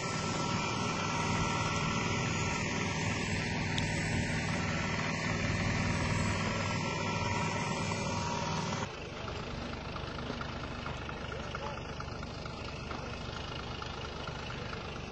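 A vehicle engine running steadily under a dense rushing noise. About nine seconds in, the sound cuts abruptly to a quieter stretch.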